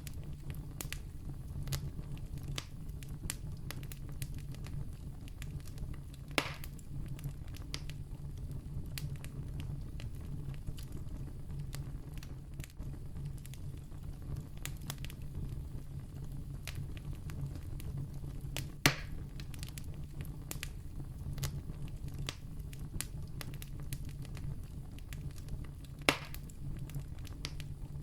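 Wood campfire crackling, with many small clicks over a low steady rumble. Three louder pops come about 6, 19 and 26 seconds in.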